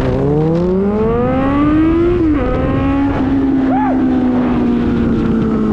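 Suzuki GSX650F inline-four engine with a new exhaust accelerating. Its note rises for about two seconds, drops suddenly at an upshift, then runs on steadily and eases off slowly, over steady wind rush.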